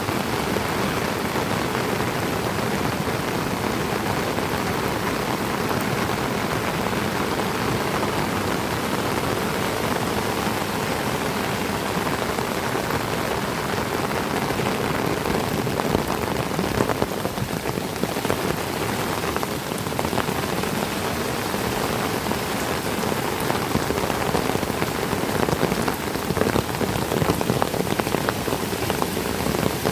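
Heavy tropical rain falling steadily on foliage, a dense even patter with a few slightly louder spells in the second half.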